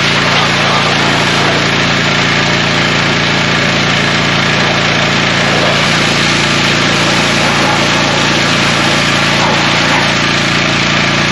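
A small engine running steadily at high speed, with a loud, even rushing hiss over it.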